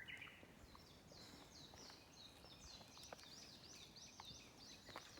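A bird singing faintly: a run of quick, high falling notes, about three a second, starting about a second in.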